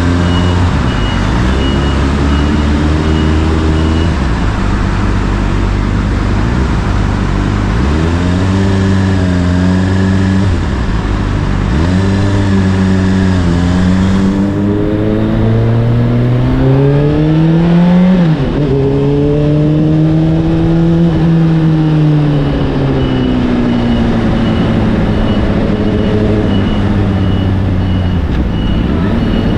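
Honda CBR600RR's inline-four engine through an Akrapovic exhaust while riding, its revs rising and falling with the throttle. The pitch climbs in steps to a peak about two thirds of the way through, drops sharply, then falls slowly and rises again near the end.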